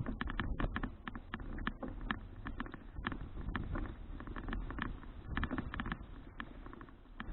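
Bicycle riding heard through an action camera's microphone: a steady low rumble of tyre and wind noise with irregular sharp clicks and rattles from the bike and camera jolting over the road surface.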